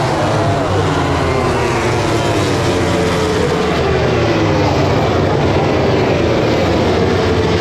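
MotoGP race motorcycles passing at racing speed, several engine notes overlapping, with their pitch falling steadily as they go by.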